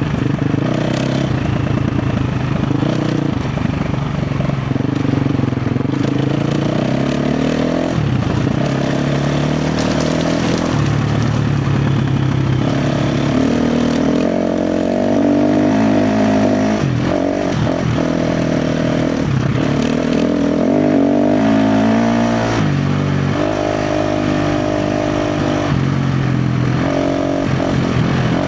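A KTM 350 XC-F dirt bike's single-cylinder four-stroke engine working over rough trail, its pitch rising and falling again and again as the throttle is opened and closed.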